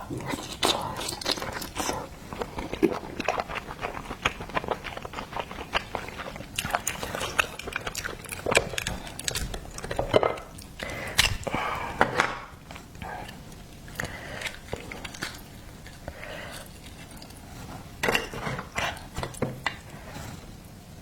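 A person eating oysters close to the microphone: wet chewing, biting and lip smacks with many small clicks, coming in busier spells with a quieter stretch partway through.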